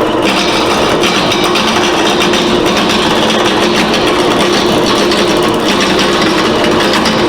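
Wood lathe running while a turning tool cuts the corners of a spinning square block of plywood: a loud, steady machine noise with a rough cutting rasp over the motor hum. The plywood chips at the edges as it is turned.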